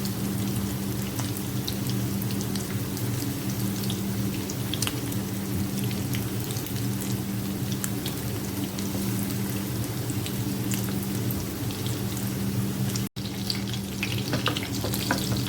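Batter-coated chicken pakoras frying in shallow oil over a medium flame: a steady sizzle with frequent small crackles and pops, which briefly cuts out about thirteen seconds in.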